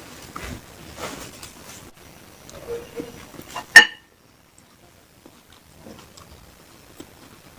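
Food and utensils handled close to the microphone: soft scattered taps and rustles, one sharp click a little before halfway, then a hush with only faint ticks.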